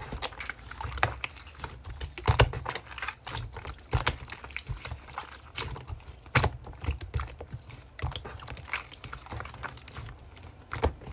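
Slime being squished and pressed by hand, making quick, irregular sticky clicks and small pops, a few of them louder.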